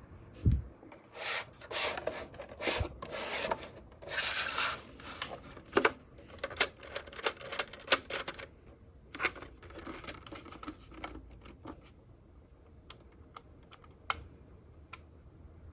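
Handling noises from unboxing a mini fan humidifier: plastic and packaging rubbing and rustling, with a rapid string of clicks and taps. They thin out to a few scattered clicks near the end.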